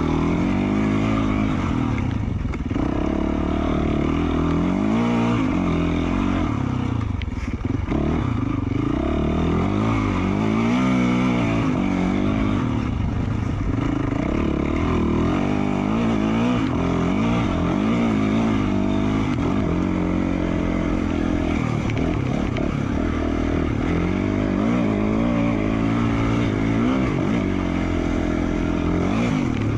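2020 Yamaha YZ450F's single-cylinder four-stroke engine, through an FMF Q4 slip-on exhaust, revving up and down over and over while the bike is ridden, its pitch rising and falling every second or two.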